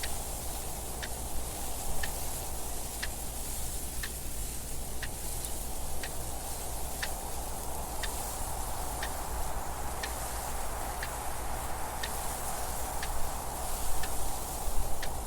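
A clock ticking about once a second over a steady bed of wind noise.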